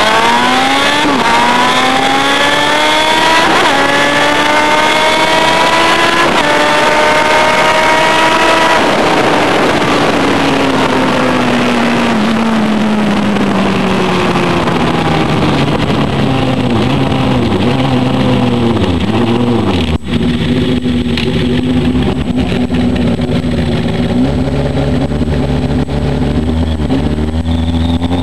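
Suzuki GSX-R 1100 inline-four engine at full throttle, the revs climbing and dropping sharply at four quick upshifts. It then rolls off and slows, with a few downshifts, and runs at a low steady speed with a short rev near the end.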